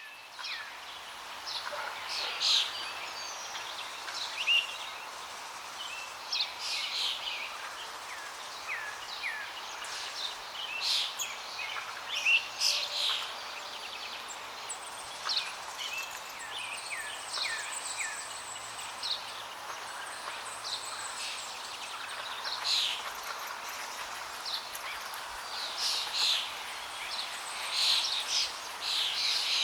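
Many small birds chirping and calling in short notes, some gliding downward in pitch, over a steady rush of flowing water.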